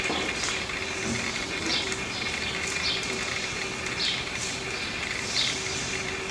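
A bird calling over and over, a short high note sliding downward about once a second, over a steady faint hum and outdoor hiss.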